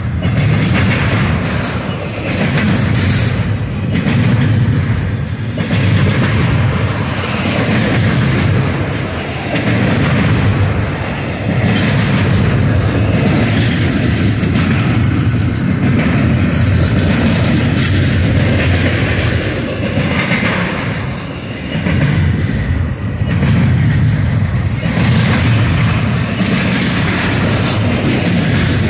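Freight train of double-stack intermodal well cars rolling past close by: a steady, loud rumble with wheels clattering over the rails.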